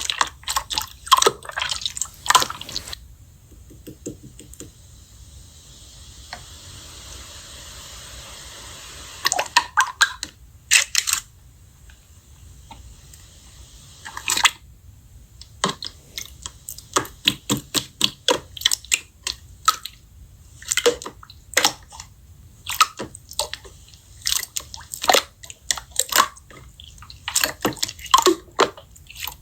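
Slime being squished and pressed by hand: a long run of short clicks and pops, with a quieter spell of soft hiss from about three to nine seconds in.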